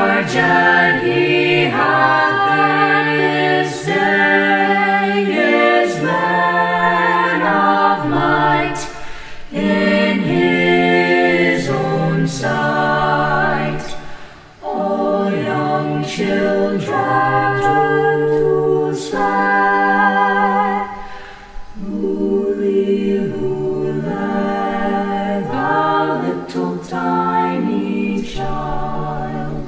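High school choir singing a cappella in several voice parts, in phrases with a brief breath pause about halfway through.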